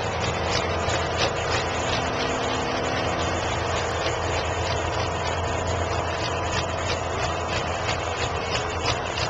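Ford 9600 tractor's six-cylinder diesel engine running at a steady, even note.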